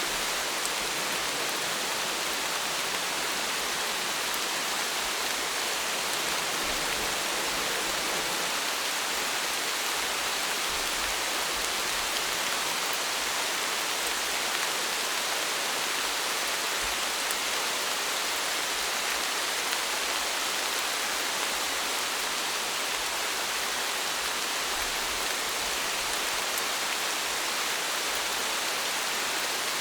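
Steady rain falling: an even hiss that holds the same level throughout, with faint tiny drop ticks on top.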